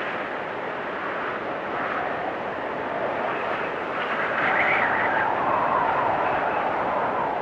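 Wind storm blowing in gusts with a whistling, whooshing rush, swelling louder about four seconds in.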